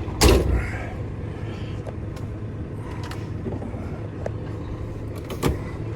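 Heavy truck's diesel engine idling with a steady low hum. A loud thump comes just after the start and a sharper knock about five and a half seconds in.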